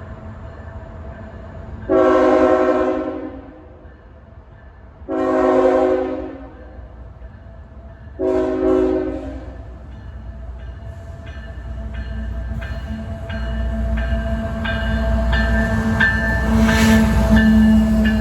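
Diesel freight locomotive horn sounding three blasts of about a second each, then the locomotives' engines growing louder as the train approaches. The wheels click over the rail joints at about two beats a second.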